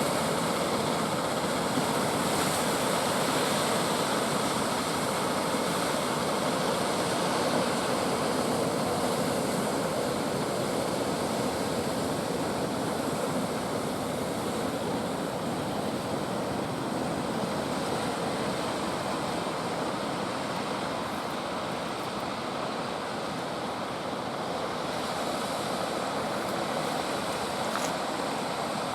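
Ocean surf breaking continuously on a beach, a steady wash of waves that eases slightly past the middle and builds again near the end.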